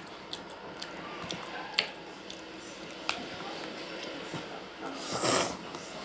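Eating sounds: faint chewing and squishing with a few small sharp clicks, then a short louder noisy burst near the end.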